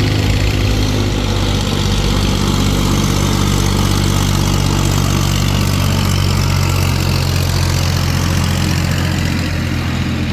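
Diesel tractor engine running steadily at low speed, easing off slightly near the end.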